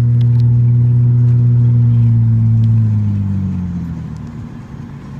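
Car's engine and road noise heard from inside the cabin: a steady drone that drops in pitch and fades about three seconds in as the car slows.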